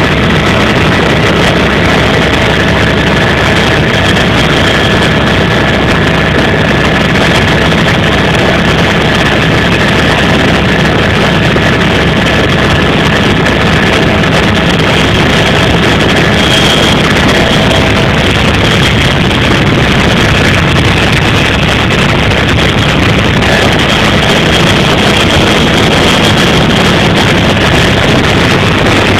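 Helicopter in flight: loud, steady engine and rotor noise, with faint high whining tones above it.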